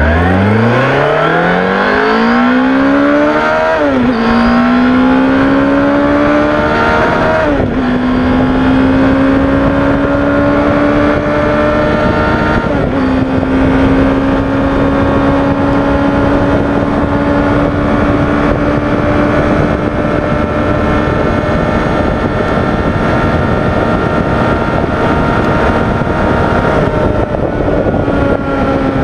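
Yamaha GTS1000's inline-four engine under full-throttle acceleration, heard onboard: the pitch climbs and drops sharply at three upshifts, about 4, 7.5 and 13 seconds in. In top gear it then pulls on with a long, slow rise, easing slightly near the end.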